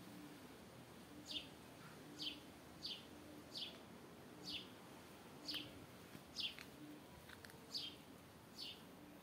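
A bird repeating a short, downward-slurred chirp about once a second, faint against quiet outdoor background.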